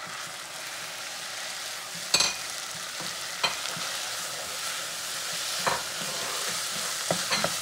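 Onion, tomato and jalapeño sizzling in a saucepan as they are stirred with a wooden spoon. A few sharp knocks come through the steady sizzle, the loudest about two seconds in.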